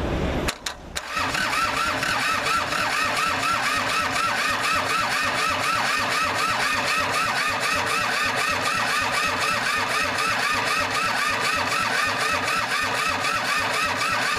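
Starter motor cranking the Kubota L2500's three-cylinder diesel engine in a steady, rhythmic chug, with a few clicks as it engages about half a second in. It is being cranked with brake cleaner sprayed in as a starting aid and does not catch; the cranking stops suddenly at the end.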